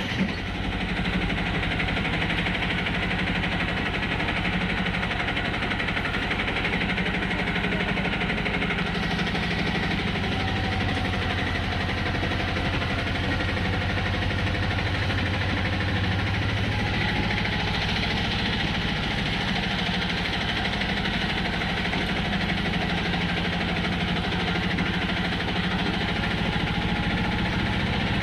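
Steady running noise of a train: a constant mechanical drone and rumble with no clear breaks.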